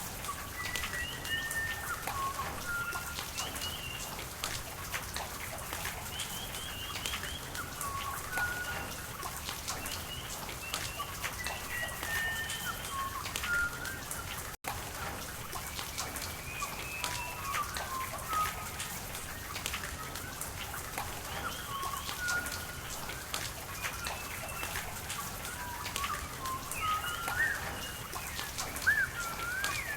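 Steady rain falling, with many sharp drop ticks over an even wash, and small birds calling throughout in short chirps and sliding whistles. The sound cuts out for an instant about halfway through.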